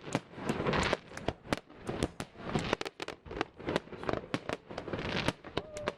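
Fireworks display: a dense run of sharp bangs and crackling, several bursts a second.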